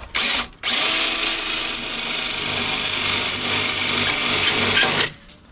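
Electric drill boring out a spot weld in the car body's sheet steel: a brief blip, then a steady run of about four seconds with a high whine, stopping about five seconds in.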